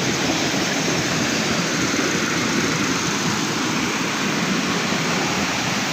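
Small waterfall pouring, a steady rush of falling water heard from right under the fall.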